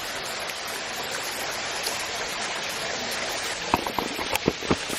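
Steady rush of water from a waterfall on a light flow. Near the end come a handful of short clicks and knocks.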